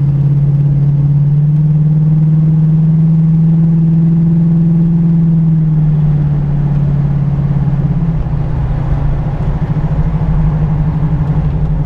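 Car engine running steadily while driving, a low drone that shifts in tone and turns rougher about eight seconds in, heard from inside the car. It cuts off abruptly at the end.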